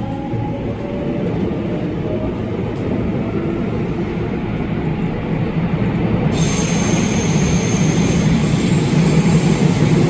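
JR West 207 series commuter train with Toshiba IGBT inverter control, heard from inside the car as it gathers speed. The rumble of the wheels on the rails and the motor noise grow steadily louder, and a sharper high hiss joins suddenly about six seconds in.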